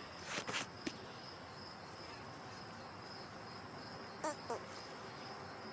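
Faint, steady high-pitched insect chirring, like crickets, with a few soft clicks in the first second and a brief short call about four seconds in.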